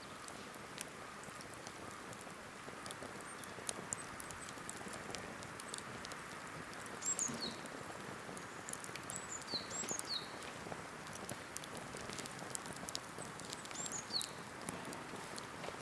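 Cedar-wood campfire crackling with frequent sharp pops over a soft steady hiss. From about halfway in, a bird repeats a short call that falls in pitch, every two to four seconds.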